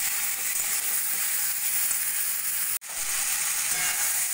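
Chopped tomatoes and onions frying in oil in an iron kadai, stirred with a metal spatula: a steady sizzle that breaks off for an instant about three seconds in.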